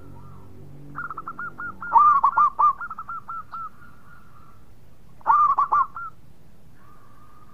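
Zebra dove (perkutut) singing: rapid runs of short cooing notes that each slide downward, loudest about two seconds in and again about five seconds in.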